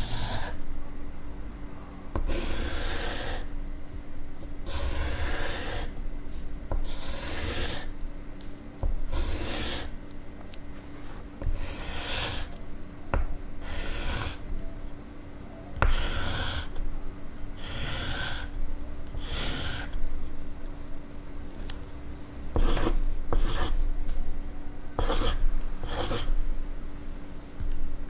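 Pencil scratching on paper in a series of short separate strokes, each lasting about half a second to a second.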